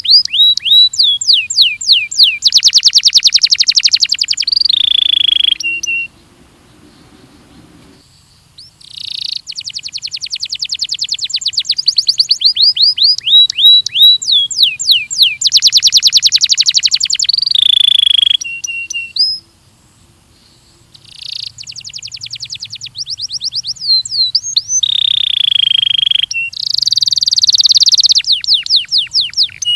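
Belgian canary singing in long phrases. Runs of repeated falling whistled notes alternate with very fast, even trills. The song breaks off twice briefly, about six and twenty seconds in.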